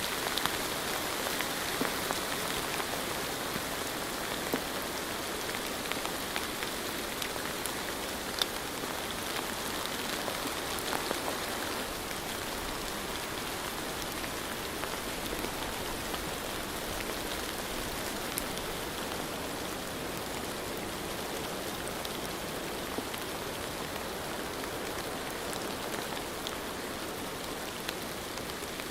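Steady rain falling, a constant hiss with scattered individual drops ticking through it.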